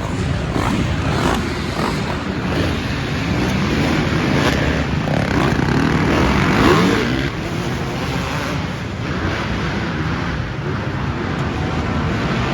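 Dirt bike engines running hard and revving, their pitch rising and falling as the bikes race around an arenacross track.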